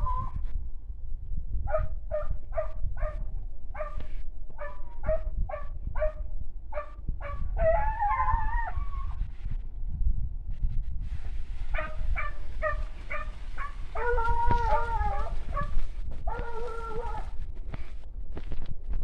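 Hunting dogs baying on a rabbit's trail: a quick run of short yelping barks, then several longer, drawn-out howling bays.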